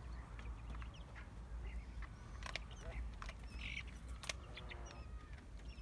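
Faint, short high peeps of newly hatched quail chicks, with a couple of sharp clicks.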